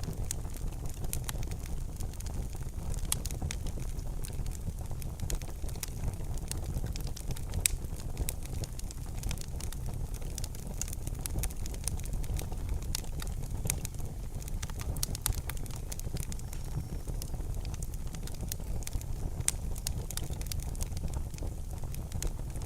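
Fire in a fireplace crackling: frequent sharp snaps and pops over a steady low rumble of the flames.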